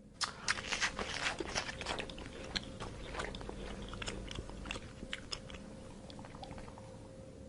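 An animal crunching and chewing food: a quick run of sharp crunches that grows sparser and quieter as it goes.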